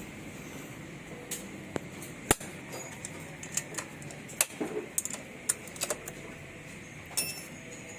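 Irregular sharp metallic clicks and taps of hand tools, a wrench and feeler gauge, working on the exhaust valve tappet adjuster of a motorcycle engine, with one louder knock about two seconds in.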